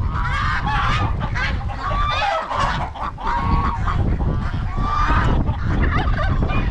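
Domestic geese honking over and over, several calls overlapping, over a steady low rumble of wind on the microphone.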